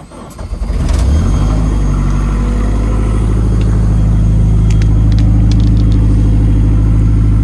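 A Honda K20 four-cylinder in a K-swapped Mazda RX-7 cranks briefly on a frosty cold start and catches about a second in. It then runs at a steady fast idle.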